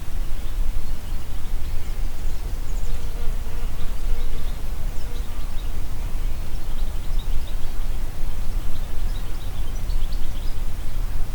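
Wind blowing through forest trees and across the microphone, a steady low rumble, with scattered high bird chirps. A buzzing insect passes for a few seconds, starting about two and a half seconds in.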